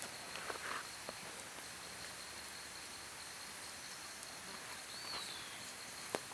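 Campfire crackling, a few sharp pops near the start and one near the end, over a steady outdoor hiss with a thin high insect drone. A short falling chirp comes about five seconds in.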